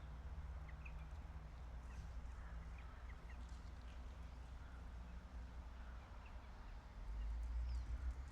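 Outdoor city ambience: a low rumble of wind and distant traffic that swells near the end, with a few short bird chirps scattered through it.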